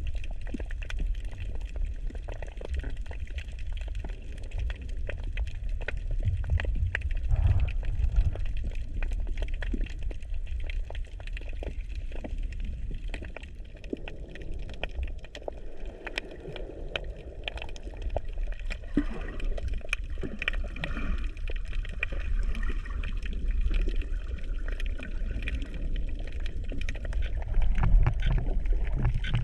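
Water sloshing and gurgling around a camera held in the sea, over a steady low rumble, with many small crackling clicks throughout and a few louder swells.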